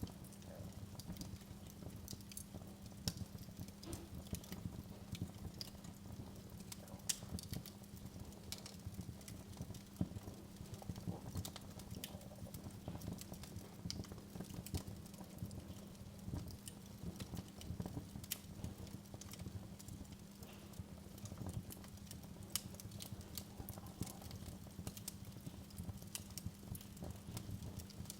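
Fire crackling in a fireplace: many irregular sharp pops and snaps over a low steady hum.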